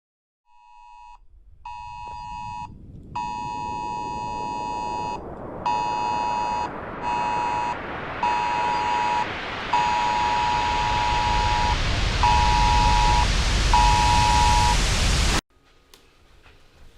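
Electronic beeping in irregular long and short tones, over a hiss of noise that swells steadily louder and then cuts off suddenly.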